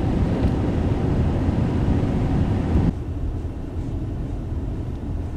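Car driving on a snowy road, a steady rumble of road and engine noise heard from inside the cabin. About three seconds in it drops suddenly to a quieter steady hiss and rumble.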